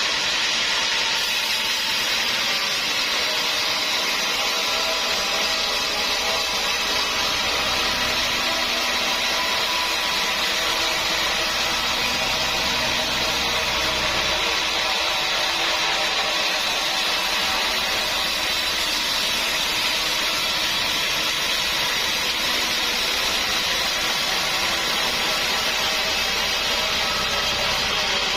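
Sawmill saw running steadily, cutting hard acacia wood, with a constant mechanical whine and rush that does not change in level.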